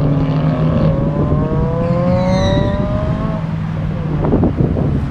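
Car engines accelerating, their exhaust notes rising in pitch over a steady lower engine drone, with a brief burst of sharp crackles near the end.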